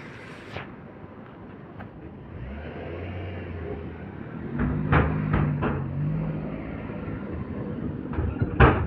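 A road vehicle's engine running and pulling away, its pitch stepping up a little about halfway, with a few sharp knocks around the middle and one near the end.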